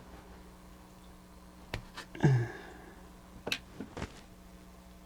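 A few sharp clicks as small plastic gears of a mechanical animated display are handled and worked loose, with a short low grunt about two seconds in. A faint steady hum lies underneath.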